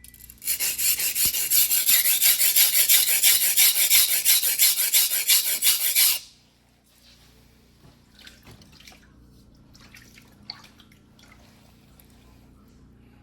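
Single-bevel fuguhiki sashimi knife blade scraped back and forth by hand on a wet whetstone, rapid even strokes about five a second, stopping about six seconds in. Faint small clicks and taps follow.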